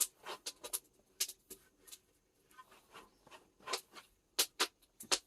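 Irregular sharp crackles and light rustling from tea leaves being pan-roasted in a wood-fired cast-iron cauldron.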